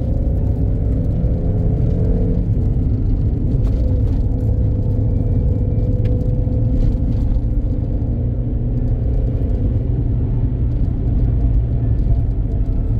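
A vehicle running steadily on the road, with a low rumble of road and engine noise and a steady engine tone that drifts slightly in pitch.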